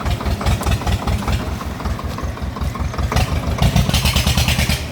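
Swaraj tractor's diesel engine running with a steady low chugging. A hissing noise rises over it for about the last second and a half.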